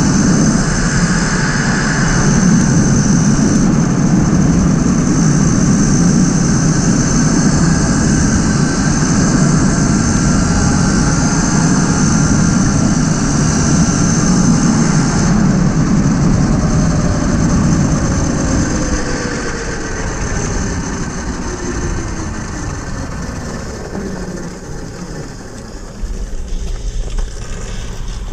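Tuttio electric dirt bike riding at speed: heavy wind rush on the microphone over a steady high whine from the electric drive. About two-thirds of the way through, the whine glides down in pitch and the wind eases as the bike slows.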